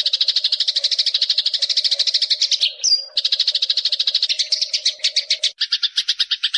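Eurasian tree sparrow (burung gereja) chirping in a rapid, unbroken chatter of about a dozen high chirps a second. There is a brief break with a short whistle about three seconds in. Near the end the chirps change tone, with a lower note joining each one.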